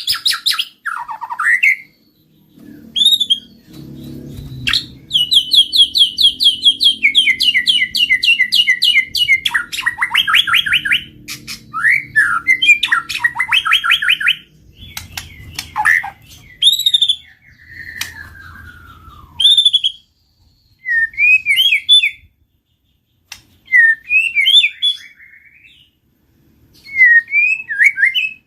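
White-rumped shama (murai batu) singing: varied loud whistled phrases and a long run of fast repeated chattering notes, broken by short pauses. A faint low rumble sits under the first two-thirds.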